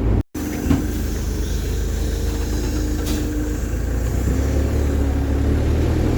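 A bus engine running with a steady low hum.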